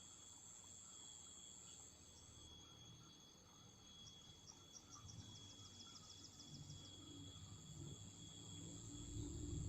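Insects trilling steadily in high, thin tones, with a quick run of ticking chirps about four to six seconds in. A low rumble rises over the last few seconds.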